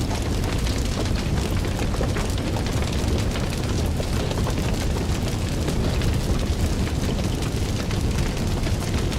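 Fire burning and crackling: a steady low rumble of flames with many small crackles and pops.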